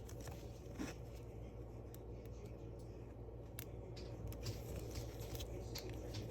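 Faint clicks and short rustles of trading cards and pack wrappers being handled, over a steady low hum.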